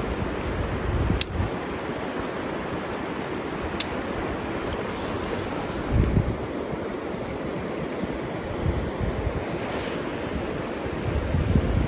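River water rushing steadily, with low wind buffeting on the microphone now and then and two sharp clicks in the first few seconds.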